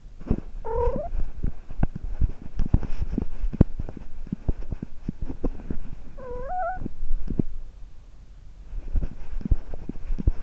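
A domestic cat meows twice, two short calls that bend upward, about six seconds apart, amid frequent knocks and rustles of movement.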